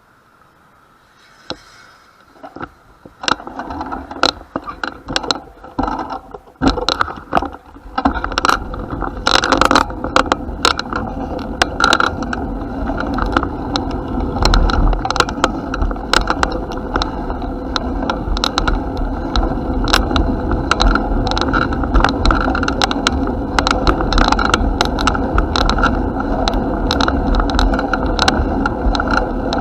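A bicycle being ridden, heard as a steady rolling rumble full of rattles and sharp clicks, which starts about three seconds in.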